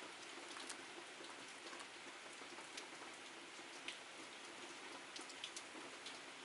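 Steady rain falling outside a window: a soft, even hiss with scattered sharp drips and ticks, one louder tick about four seconds in.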